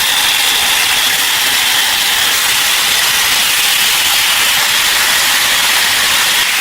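A steady, loud hiss with no break.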